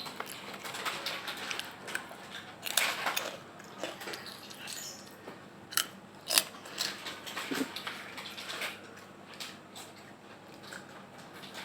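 Close-up crunching and chewing of a crispy snack, with irregular crackles and a few sharper snaps about six seconds in.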